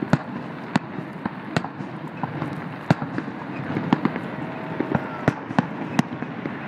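Aerial fireworks shells bursting: a run of sharp bangs at irregular intervals, roughly one every half second to second, over a constant background din.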